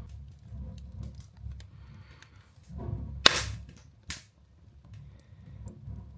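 Open fire of wood briquettes and kindling crackling in a fireplace, with scattered sharp pops over a low rumble of flames; the loudest crack comes a little over three seconds in, and another follows about a second later.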